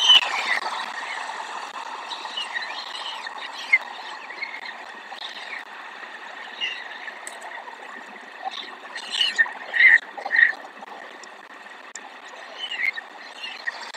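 Small birds chirping in short, scattered calls, a few close together about two-thirds of the way through, over a steady background hiss.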